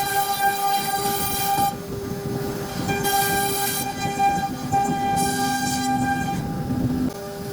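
CNC router spindle whining while carving wood, its steady tones stepping in pitch every second or two, with a high cutting hiss that comes and goes.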